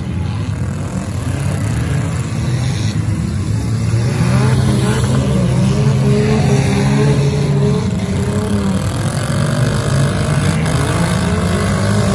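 Engines of several demolition derby cars revving loudly together. Their pitch rises and falls again and again as the drivers work the throttles.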